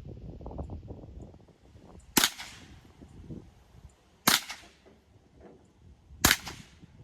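Three single shots from a Ruger 10/22 semi-automatic .22 rifle, sharp cracks about two seconds apart, fired into a Keurig coffee maker. The first is preceded by a second or so of low rumbling noise.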